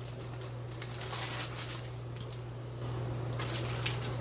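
Light crinkling and rustling as sliced deli ham is handled and laid onto the bread, over a steady low hum that gets a little louder about three quarters of the way through.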